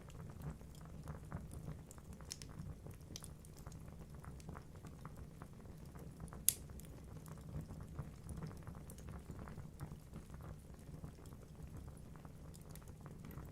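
Wood logs burning in a fireplace, crackling with many small irregular pops over a steady low rumble of the flames. One sharp, louder pop about halfway through.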